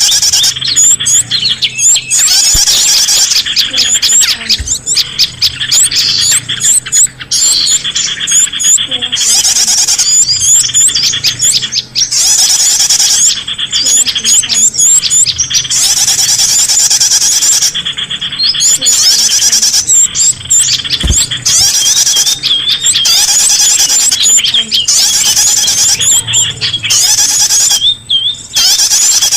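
Bird-lure recording of small songbirds: loud, dense, rapid high-pitched chirping and twittering, broken by a few brief pauses.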